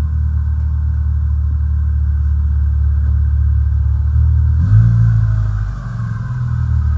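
2001 Subaru Forester's EJ25 flat-four engine running with a loud, steady drone; a little under five seconds in its sound shifts up sharply, sags for a moment about a second later, then picks back up. It is a worn, smoking engine knocking on the crank, being run hard to destruction.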